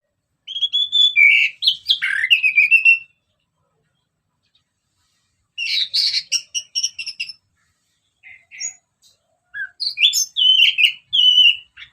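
Orange-headed thrush in full song: three bursts of rapid, varied whistled phrases with short pauses between them.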